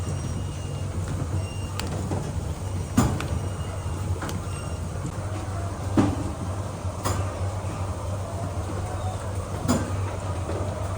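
Farm machinery running with a steady low hum, with a sharp knock or clack every few seconds, four in all.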